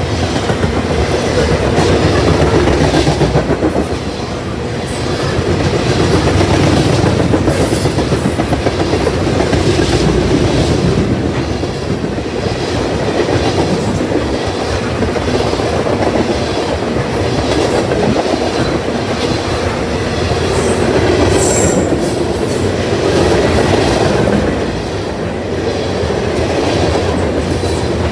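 Freight train of tank cars and covered hoppers rolling past: a steady rumble of steel wheels on rail with the clickety-clack of wheels over rail joints, swelling and dipping in loudness every few seconds as the cars go by.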